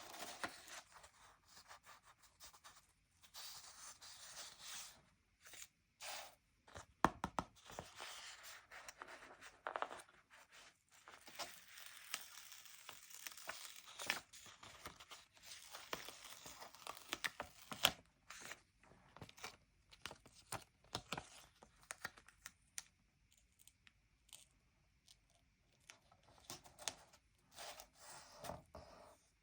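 Stickers being peeled off a sticker sheet and pressed onto the paper pages of a sticker book: an on-and-off run of crackly peeling and rustling with small sharp clicks, easing off for a few seconds before the end.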